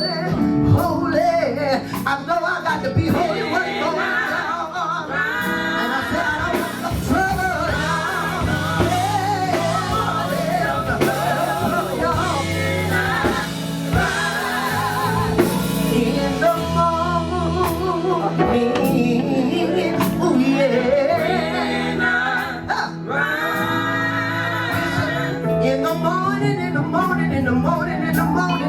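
Live gospel music: vocalists singing over a backing band with bass and drums.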